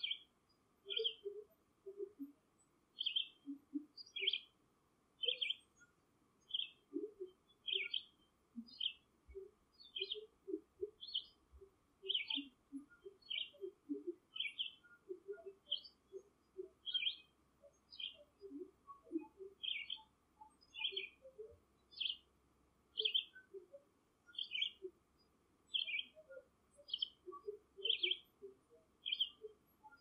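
Short high chirps repeated about once or twice a second throughout, with soft, short low notes scattered between them, typical of a bird calling.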